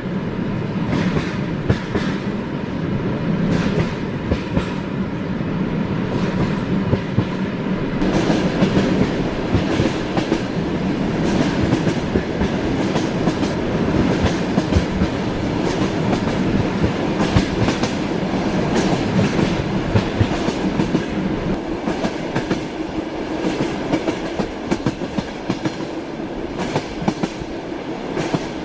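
Passenger train in motion: a steady rolling rumble with frequent sharp clacks as the wheels run over rail joints.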